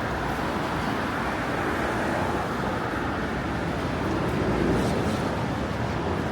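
Steady city street traffic in the rain: an even wash of passing cars on wet road, swelling slightly about two thirds of the way through.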